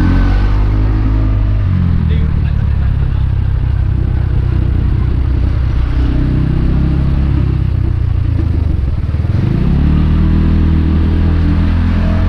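Motorbike engine heard while riding: its pitch drops as it slows about a second or two in, holds lower, then climbs again near the end as it accelerates.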